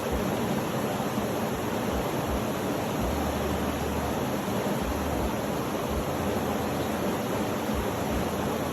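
Steady, even rushing noise that does not change, with its weight in the low-middle range.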